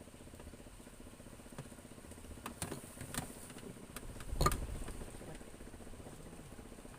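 A small engine running steadily at idle, with a few sharp knocks over it; the loudest knock, with a low thump, comes about halfway through.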